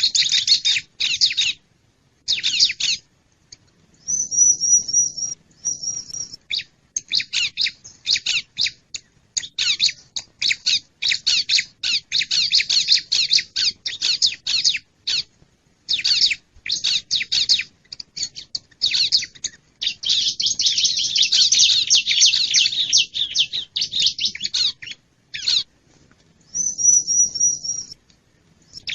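Bar-winged prinia (ciblek) calling: fast runs of sharp chirps and chatter, with a couple of short, level, high whistled notes and a dense, unbroken stretch of chattering a little past the middle. It is a lure recording for drawing wild prinias in.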